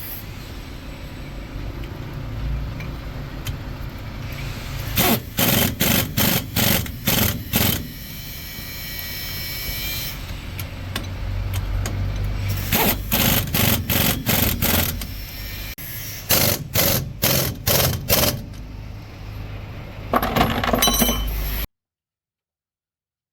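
Metal being struck hard with a hammer in runs of five or six blows, about two or three a second, over a low steady rumble. The sound cuts off abruptly near the end.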